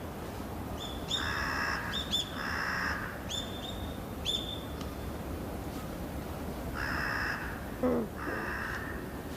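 Crow cawing in two pairs of harsh calls, about five seconds apart, with short high chirps of small birds in between.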